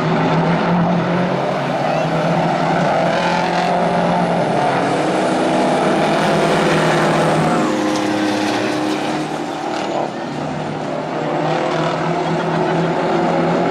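Big-rig semi trucks racing on a dirt oval, their diesel engines running loud and steady throughout, with a dip about ten seconds in.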